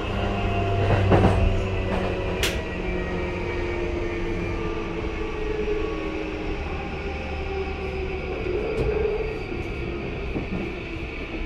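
Interior running sound of a JR East E235-1000 series electric train's motor car: steady wheel-on-rail rumble and road noise, with faint steady tones from its Mitsubishi full-SiC VVVF traction motors. There is a sharp clack about two and a half seconds in.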